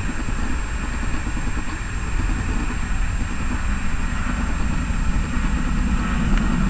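Airbus A319's CFM56 jet engines on final approach, a steady rushing rumble that grows louder near the end as the airliner comes closer.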